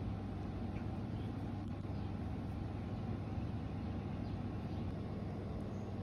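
Steady low rumbling hum with no change in level, with a few faint short high chirps above it.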